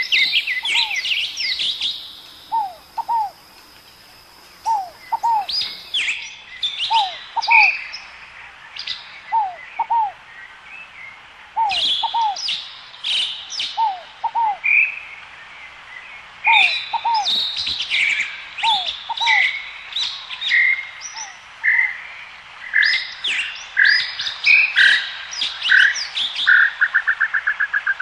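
A chorus of several birds calling: busy high chirps and trills over a repeated pair of lower down-slurred whistles that comes about every second and a half, with a fast trill near the end.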